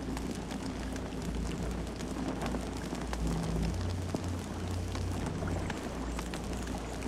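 Campfire burning, crackling with frequent small pops over a steady low rumble of the flames.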